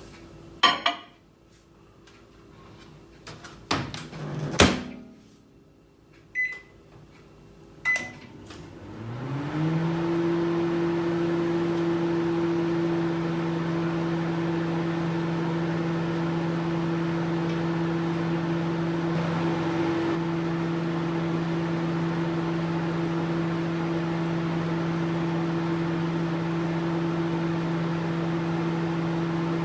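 Microwave oven being operated: a few sharp knocks of the door and handling, two short keypad beeps, then the oven starts and its low hum rises briefly in pitch before running steadily.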